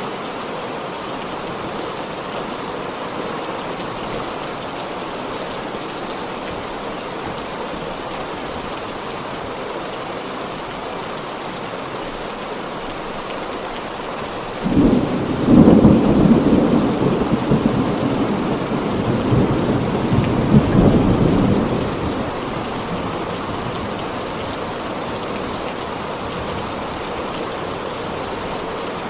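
Heavy rain falling steadily, with a loud thunderclap about halfway through that rumbles on for several seconds before dying back into the rain.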